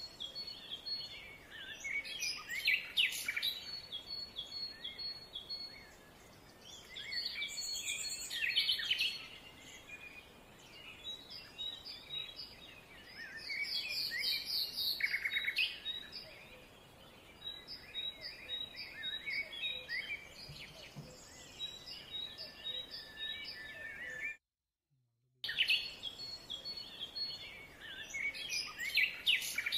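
Birds chirping and calling in forest, with one bird repeating a short high note in steady runs among the other calls. The sound cuts out for about a second near the end.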